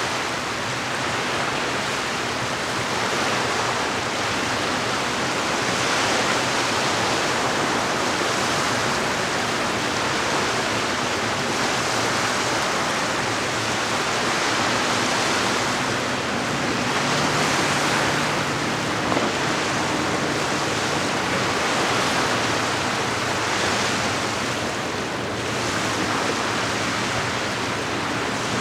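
Lake water washing against the shore, swelling and easing every few seconds, with a faint low steady hum underneath.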